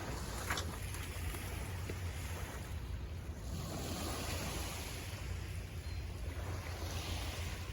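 Ocean surf washing up on the beach in slow swells, with a steady low rumble of wind on the microphone.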